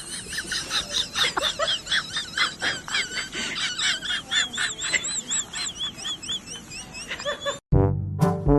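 A rapid series of short, high-pitched chirping animal calls, several a second, each rising and falling in pitch. Near the end they cut off abruptly and brass music starts.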